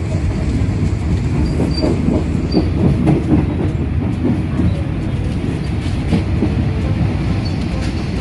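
Passenger train carriage running on the rails, heard from inside: a steady rumble with irregular clatter and knocks from the wheels and car body.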